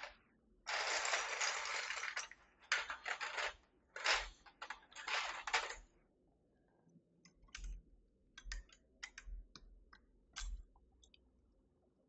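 Keys on a Keychron V6 Max mechanical keyboard being pressed: runs of rapid keystrokes for the first few seconds, then single key presses spaced out over the rest.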